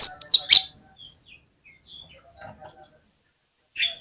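Oriental magpie-robin (kacer) song: a loud whistled phrase ends under a second in, followed by faint scattered chirps and one short call near the end.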